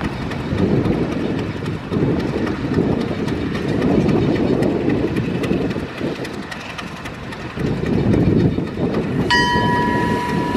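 The Barossa Wine Train's stainless-steel railcars rolling past on the track: a steady rumble of wheels and car bodies, with a stream of clicks and clacks over the rail joints. Near the end a steady high tone cuts in and holds.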